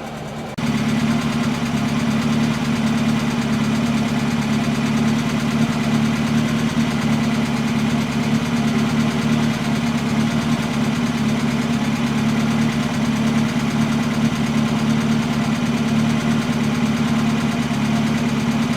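Austin Princess car engine idling steadily, getting suddenly louder about half a second in and then holding an even note.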